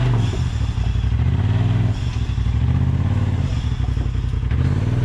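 Side-by-side UTV engine running under load while rock crawling, the revs rising and falling several times as the driver works the throttle.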